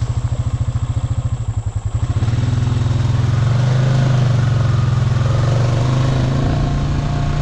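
Honda Rancher 420 ATV's single-cylinder engine chugging at low revs with an even pulse, then opened up about two seconds in and held steady at higher revs.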